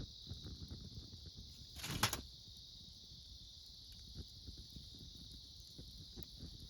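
Wood fire crackling with scattered small pops, while insects chirp steadily in a high, even drone. About two seconds in there is a short, louder burst of noise, the loudest moment.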